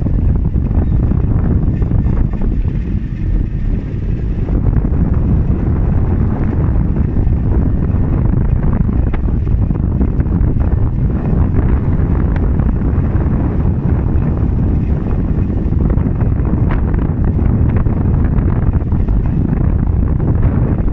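Wind buffeting the microphone of a camera carried on a moving bicycle: a loud, steady low rumble.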